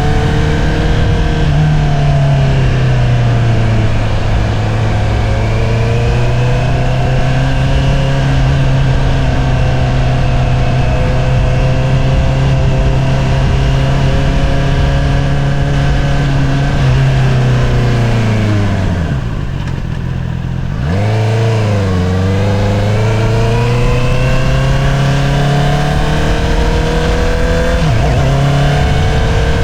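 2022 Honda CBR650R's inline-four engine through an Akrapovič single-outlet exhaust, cruising at a steady pitch. About two-thirds through the revs fall away and the note goes quieter, then the revs climb sharply again as it accelerates. Near the end there is a brief dip in pitch, like a quick gear change.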